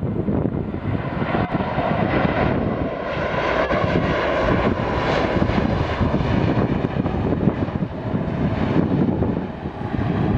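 Jet airliner's engines on landing approach, a steady roar that swells as the plane passes, loudest about four to five seconds in.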